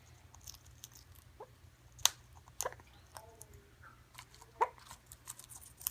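Pet bird cracking and chewing seeds, likely sunflower seeds: a scattering of sharp, irregular clicks and crunches.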